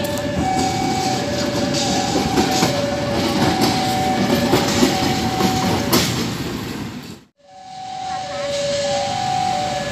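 Level-crossing warning alarm sounding two alternating tones, low-high about every 0.7 s, over the rumble and clicking of a train rolling through the crossing. All sound cuts out abruptly about seven seconds in, then the alarm comes back.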